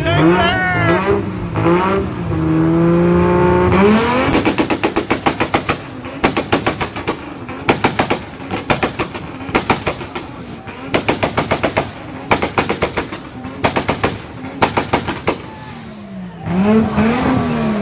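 A car engine is revved and held, then about four seconds in it bounces off the rev limiter, firing rapid strings of exhaust pops and bangs in repeated bursts, like a machine gun, for about twelve seconds. Near the end a single rev rises and falls.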